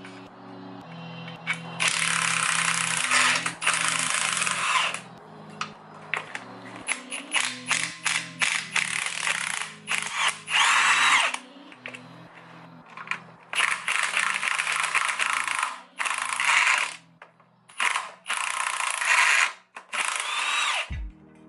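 A cordless power ratchet running in repeated bursts of a second or two, backing out the transmission's bell-housing bolts, with quick ratcheting clicks in between. Background music plays underneath.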